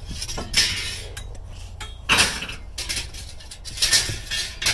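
Scrap metal clanking and clinking as it is handled, with louder clanks about half a second in, around two seconds in and near the end.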